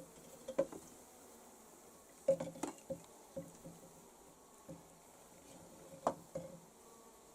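Irregular light knocks and clatters, like a container and tools being handled. They come in small clusters: one near the start, a busier run two to three seconds in, and another about six seconds in.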